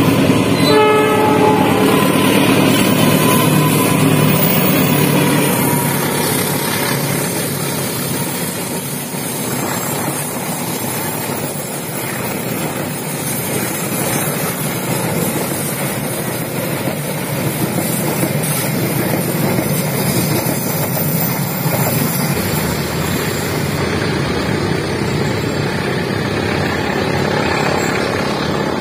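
Diesel-hauled passenger train passing close by: the locomotive's engine and the rumble of wheels on the rails, easing a little after about six seconds as the coaches roll past on the curve.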